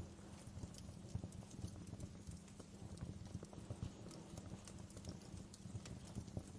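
Wood fire burning in a fireplace, crackling with many small irregular pops and snaps over a low steady rumble of the flames.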